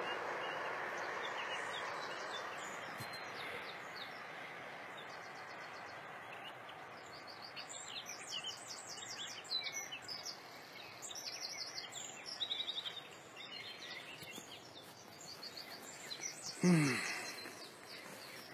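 Small birds singing in high, repeated trills and chirps over outdoor ambience, after a rushing noise fades away over the first few seconds. Near the end, a short low sound falling in pitch is the loudest thing.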